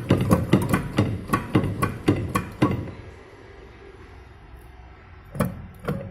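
Hammer blows, about four a second for roughly two and a half seconds, then a pause of about two and a half seconds before the hammering starts again near the end.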